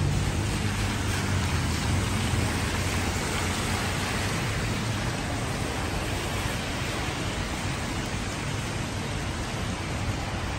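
Heavy rain falling onto a wet street as a steady hiss, with the low rumble of passing traffic on the wet road, strongest in the first couple of seconds and then fading.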